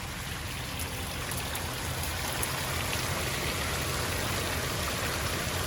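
Water rushing steadily over a small forest waterfall, an even hiss with a low rumble underneath that grows slowly louder.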